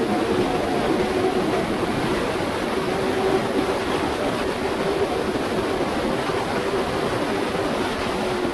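Aprilia RSV4 1100 Factory's V4 engine held at a steady pitch while riding at speed, under a heavy, even rush of wind noise.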